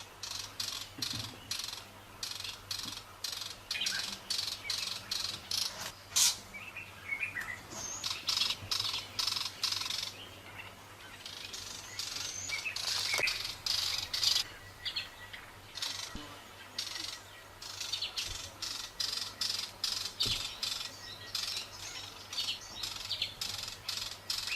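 Small birds chirping: rapid, repeated short high chirps, a few each second, over a faint steady low hum.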